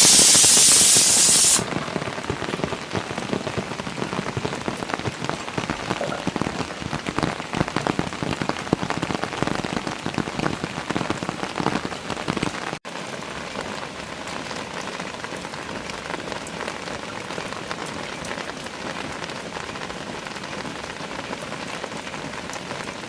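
Rain falling steadily, with many separate drops striking surfaces. It opens with a loud hiss lasting about a second and a half. About halfway through there is a sudden break, after which the rain goes on a little quieter and more even.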